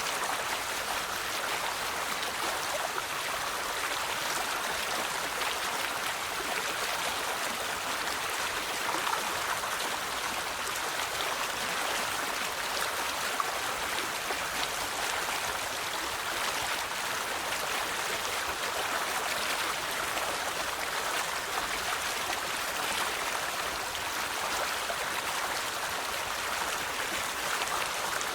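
River water flowing over rocks: a steady, even rush and babble.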